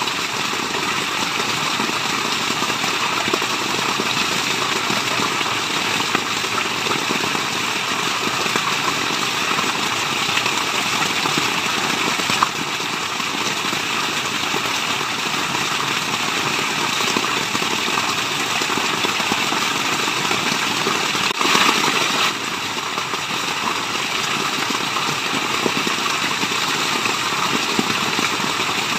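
Steady, even rush of falling water, white-noise-like, with no breaks.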